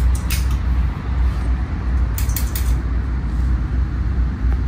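Steady low rumble of a commuter train running, heard inside the carriage. Over it come a few short sharp clicks, right at the start and again in a quick cluster of three about two seconds in: the conductor punching the paper tickets.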